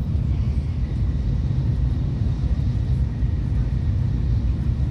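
Tokaido Shinkansen bullet train running at speed, heard from inside the passenger cabin: a steady, even low rumble.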